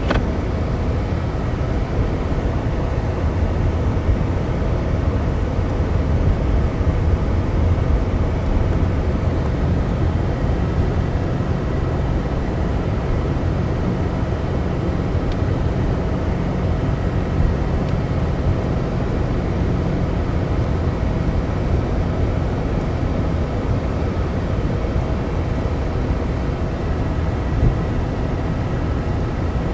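Steady engine and tyre rumble of a car driving on a snow-covered, unplowed road, heard from inside the cabin.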